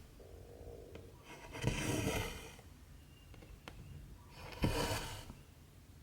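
Cotton embroidery thread drawn through 14-count cross-stitch fabric: two long rasps about three seconds apart, each with a sharp tick of the needle shortly before it.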